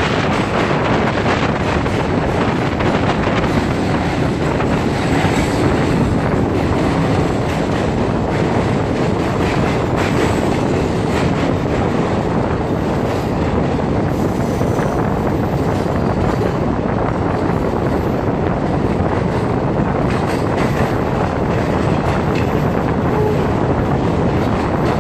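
Passenger train running through a rail tunnel, heard from an open coach doorway: a loud, steady rush of wheels on rails, with wind on the microphone.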